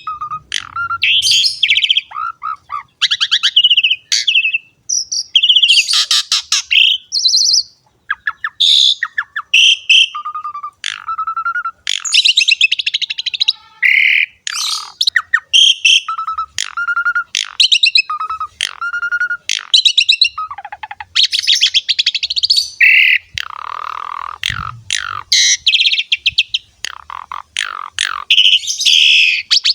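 Javan pied starling (jalak suren) singing without pause: a varied run of short whistles, rapid chattering notes and harsher buzzy calls, separated by brief gaps.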